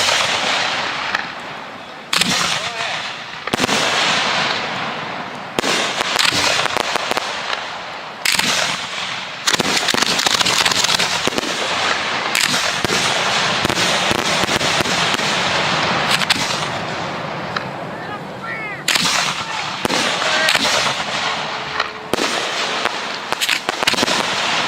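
Professional 1.3G display fireworks going off close by: a dense run of sharp bangs over continuous crackling. A few rising whistles come about three-quarters of the way through.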